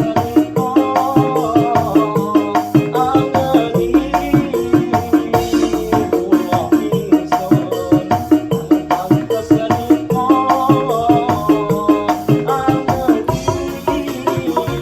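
Dangdut koplo music played on an arranger keyboard: a fast, busy drum-and-shaker pattern under a keyboard melody, loud and steady throughout.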